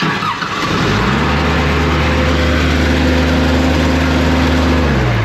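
Engine of a big engine-driven air compressor revving up to wide-open throttle within about a second, holding steady at high speed, then dropping in speed near the end. It runs wide open because the compressor is building no air pressure to idle it down; the owners suspect a stripped coupler that drives the compressor.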